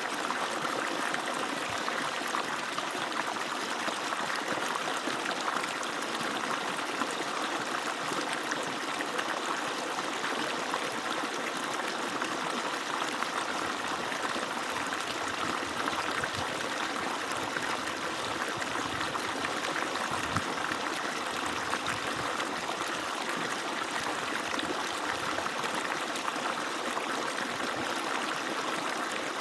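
Water pouring steadily from an agricultural irrigation pump's outlet: an even, unbroken rush of falling water.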